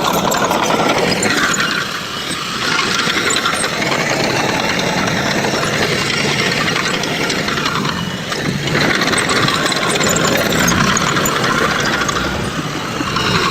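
Heavy construction machinery engine running steadily, with mechanical noise, dipping briefly about two seconds in and again near eight seconds.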